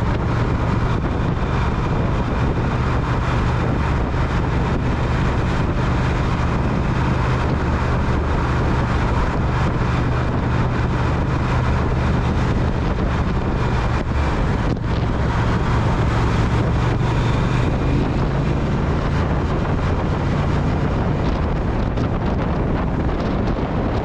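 Triumph Speed Twin's parallel-twin engine running at a steady cruise, with wind buffeting the microphone.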